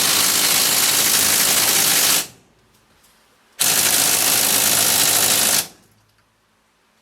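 Impact wrench (rattle gun) hammering in two bursts of about two seconds each, with a pause between, on the tight Allen bolt at the bottom of a motorcycle fork leg.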